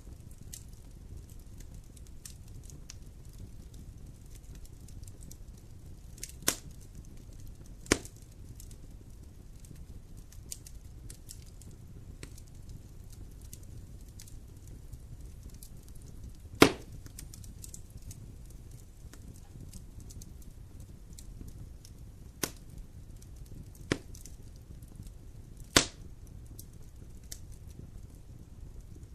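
Wood campfire crackling: a steady low rumble with faint ticking, and about six sharp pops scattered through it, the loudest a little past halfway.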